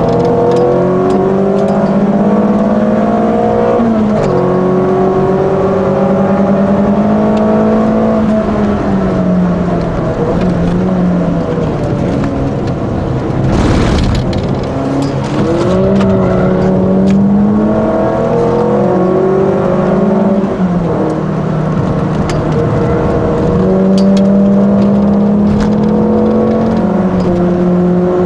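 Peugeot 206 RC's 2.0-litre four-cylinder engine heard from inside the car while lapping a circuit. The revs climb steadily in each gear and drop sharply at the gear changes several times, with easing off for braking into corners. A brief rush of noise comes about fourteen seconds in.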